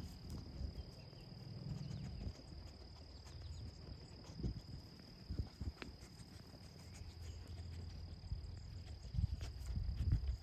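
A steady high-pitched insect trill, typical of a cricket, over low rumbling wind and handling noise on the microphone, with a few soft knocks of footsteps.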